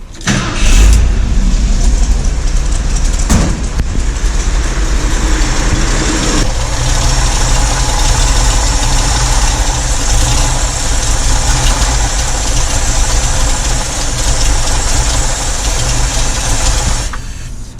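Ford 351 Windsor V8 with an aftermarket cam starting within the first second and running loudly while fogging oil is sprayed into the intake to winterize it. The engine stalls on the oil and cuts off near the end.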